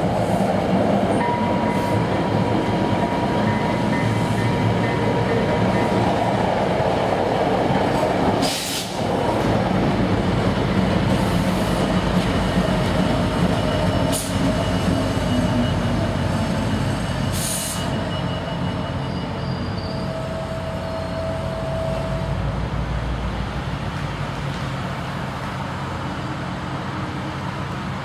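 Bilevel passenger train rolling past: a steady rumble of steel wheels on rail, with faint thin wheel squeals and a few sharp clanks. It eases off somewhat towards the end.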